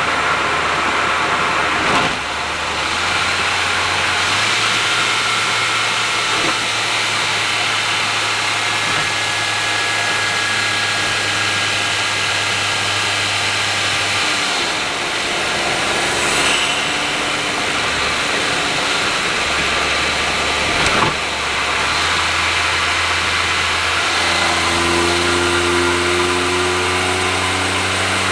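Honda S660's small turbocharged three-cylinder engine with an HKS aftermarket exhaust, cruising at expressway speed under steady tyre and road noise. There are two short thumps, about two seconds in and again about twenty-one seconds in, and the engine note climbs near the end as the car accelerates.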